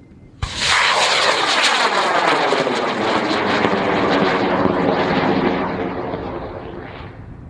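High-power rocket on an M1297 motor lifting off: a sharp crack at ignition about half a second in, then the motor's loud, steady burn as it climbs, fading away over the last couple of seconds.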